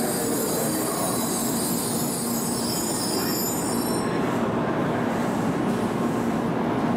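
N700 series Shinkansen train pulling into the platform and braking to a halt, with a high squeal from the wheels and brakes that stops about four seconds in as the train comes to rest. A steady low hum continues from the standing train.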